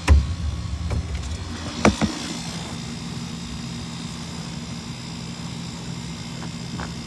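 Goodman GSX air-conditioner condenser running: a steady low compressor hum under the rush of its fan. Two sharp knocks sound near the start and about two seconds in.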